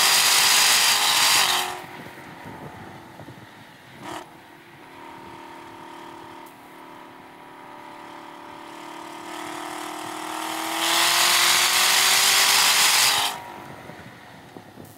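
Chevrolet Camaro ZL1 1LE's supercharged V8 heard from inside the car on track: loud at full throttle near 6,000 rpm, then lifting off sharply under braking about two seconds in. It holds part throttle with slowly rising revs through a corner, goes back to full throttle at about eleven seconds, and lifts again shortly before the end.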